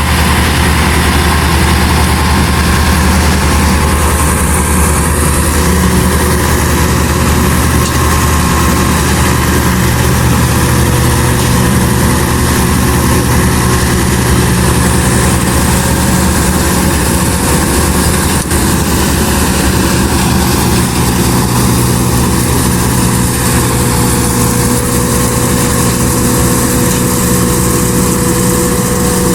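Farm tractor's diesel engine running steadily at constant speed, a loud even drone with no change in pitch.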